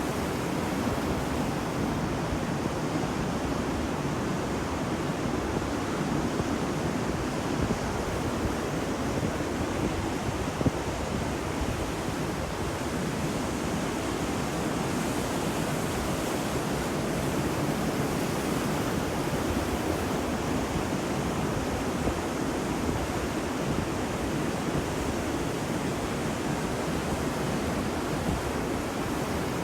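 Ocean waves washing on a beach: a steady rush of surf with gentle swells and no distinct breaking crashes.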